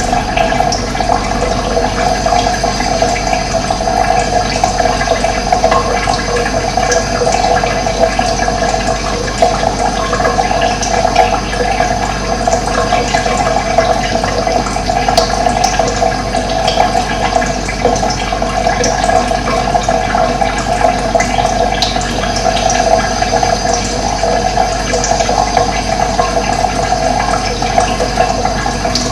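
Running water: a steady, rushing flow that keeps on without a break.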